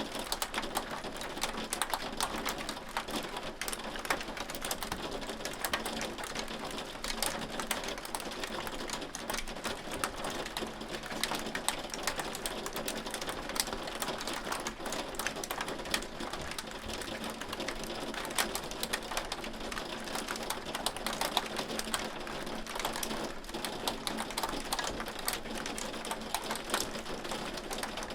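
Hailstones striking a hard surface: a dense, steady rattle of sharp ticks, with some louder individual clicks scattered through it.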